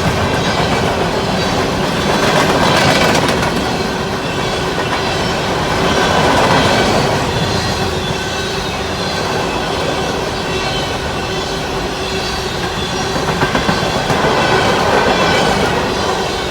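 Freight train of hopper cars rolling past: a continuous rumble and clatter of steel wheels over the rails, swelling and easing every few seconds.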